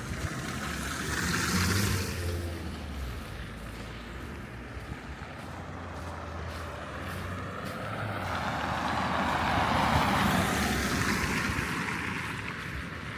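City road traffic: a heavy vehicle's engine hums low and steady, then a vehicle passes with a swell of engine and tyre noise that peaks about ten seconds in and fades.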